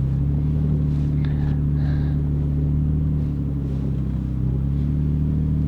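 Truck engine running steadily at low revs, a low, even hum.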